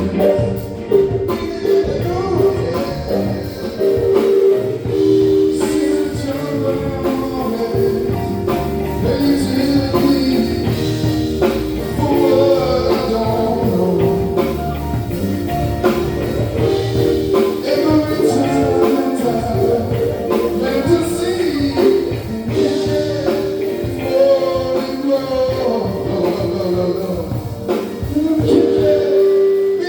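Live band music with singing, drums, guitar and tambourine.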